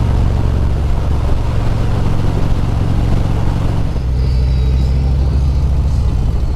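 Harley-Davidson Road Glide V-twin engine running at road speed under the rider, with wind and road noise; about four seconds in, the engine note drops lower.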